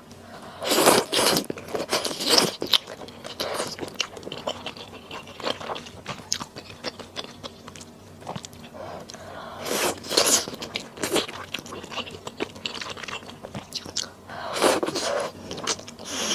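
Close-miked eating sounds: a person biting and chewing food, with loud bursts about a second in, around ten seconds in and near the end, and quieter chewing between.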